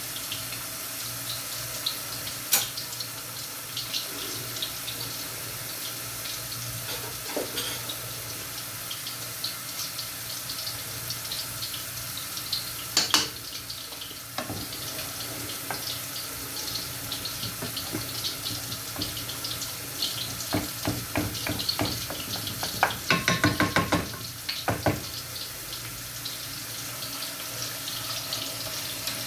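Water running steadily from a kitchen tap into a sink, with scattered clinks and a quick run of knocks a little past two-thirds of the way through.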